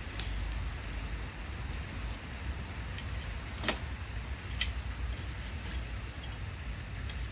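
Steady rain, with a low rumble underneath and two sharp snaps about halfway through.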